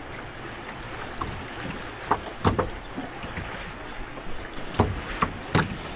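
Water sloshing and slapping around a kayak as it is paddled on a choppy sea, with several sharp splashes about two seconds in and a few more near the end.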